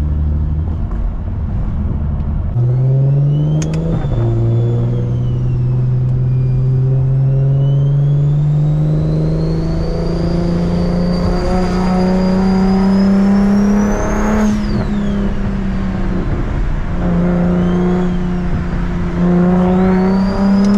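BMW 335is N54 inline-six with a big single turbo pulling through the gears. The engine note steps down at a shift about four seconds in, then climbs steadily. A high whistle rises with the revs and falls away sharply as the throttle lifts about 14 seconds in, then comes back briefly near the end.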